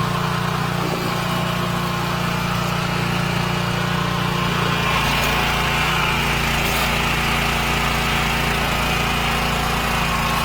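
Small engine of a mobile car wash rig running steadily, its note shifting about halfway through.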